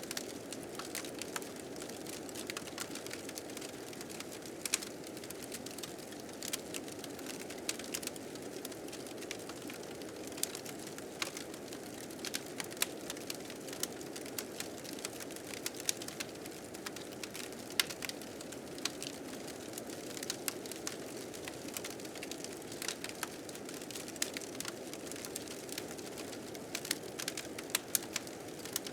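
Wood fire crackling, with frequent irregular sharp pops, over the steady rushing of blizzard wind.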